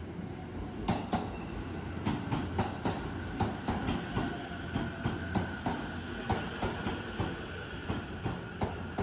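JR electric train rolling slowly along the platform, its wheels clacking over the rail joints a few times a second above a steady rumble, with a faint steady whine.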